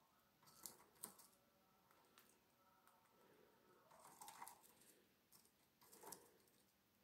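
Faint, scattered clicks and crunches of a cockatiel's beak nibbling at a peanut, over near silence.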